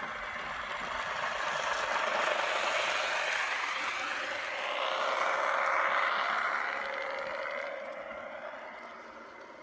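N gauge model train running past on the layout: the whir and clatter of its motor and wheels on the track grow louder, peak mid-way and fade away.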